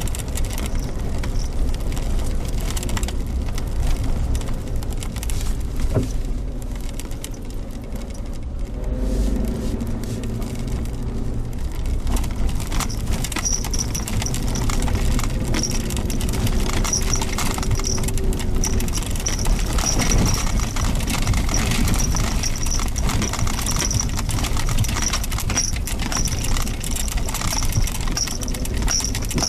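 Suzuki Jimny Sierra driving, a steady engine and road rumble with the engine note shifting as the throttle changes, and frequent small rattles and clicks throughout. A high thin buzz pulses on and off from about halfway through.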